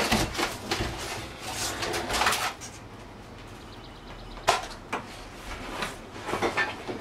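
Foam insulation and rotted wood being scraped, torn and pried out of a camper wall, in irregular bursts, with two sharp knocks about halfway through.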